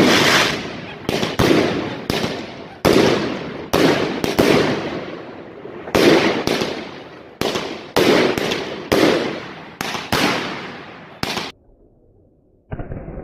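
Fireworks bursting in rapid succession: a string of sharp bangs, each followed by an echoing tail, about one to two a second, sometimes doubled up. Near the end the bangs cut off abruptly, and one duller, muffled bang follows.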